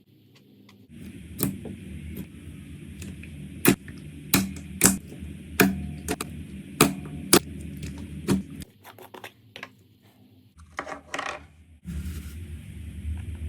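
Slime being squeezed and pressed by hand, making sharp clicks and pops, about a dozen spread over several seconds, then a quick cluster of pops near the end, over a low steady hum.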